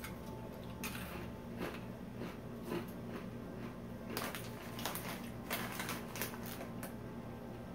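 A person chewing a crunchy honey mustard pretzel piece: irregular crunches, coming thicker about halfway through.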